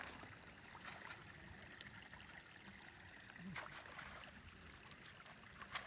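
Faint, steady rush of running water, with a few short clicks.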